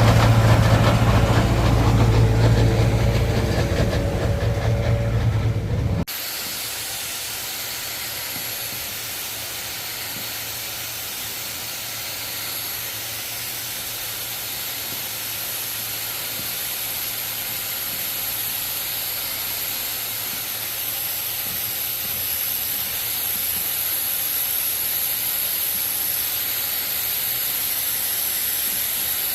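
Carpet-cleaning extraction machine running: a steady hiss of suction with a high thin whine. For the first six seconds it is louder, with a strong low hum, then it changes abruptly to the quieter, even hiss, which slowly grows louder toward the end.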